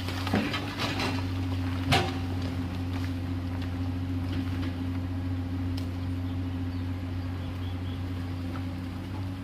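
Komatsu PC210LC hydraulic excavator's diesel engine running at a steady drone, with a single sharp knock about two seconds in.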